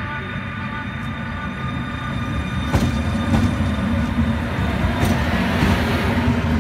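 Electric locomotive EU160 (Newag Griffin) hauling passenger coaches slowly past: a steady low rumble that grows louder about two seconds in, with a few sharp wheel clicks over the rail joints.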